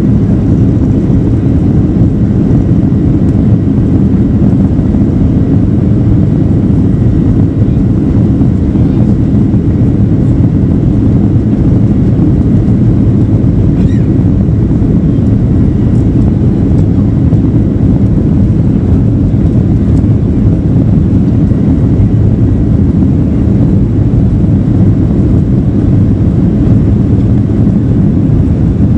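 Steady loud rumble of a jet airliner's engines and airflow heard inside the passenger cabin, with no change in level.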